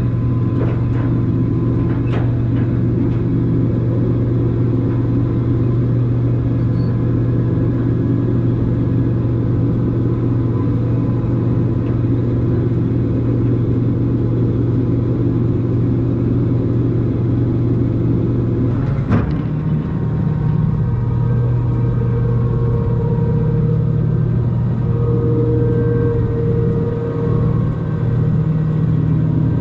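A motor vehicle's engine drones steadily and loudly. About 19 seconds in there is one short knock, after which the drone changes tone slightly.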